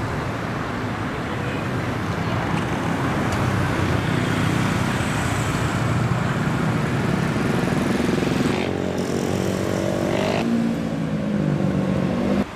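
Road vehicle engines running, traffic noise. From about nine seconds in one engine's steady hum stands out, and the sound cuts off suddenly near the end.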